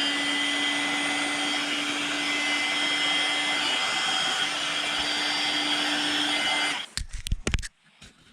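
An electric motor-driven machine running steadily at full speed, starting abruptly and cutting off after about seven seconds, followed by a few sharp knocks.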